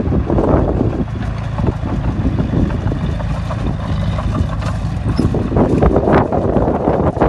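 Bulldozer's diesel engine working steadily under load, with clanks from the tracks and blade, swelling louder briefly near the start and again about six seconds in.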